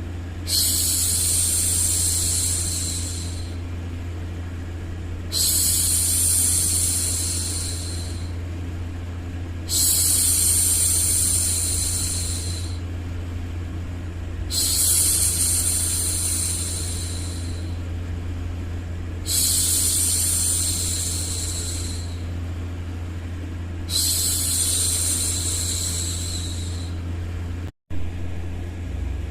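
A woman's voice shushing, 'shhh', in six long hushes of about three seconds each, repeating every four to five seconds over a steady low hum of background noise. The sound cuts out for an instant near the end.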